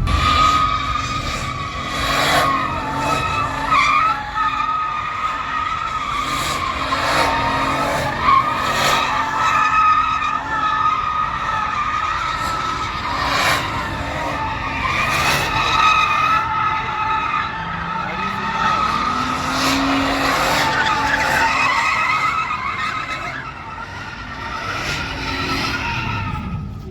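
Tires squealing in one long continuous screech, as in a burnout, with an engine revving up about two-thirds of the way through.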